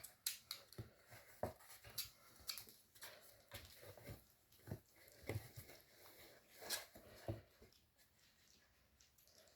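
Young kittens making faint whimpering mews among soft, irregular clicks and rustles.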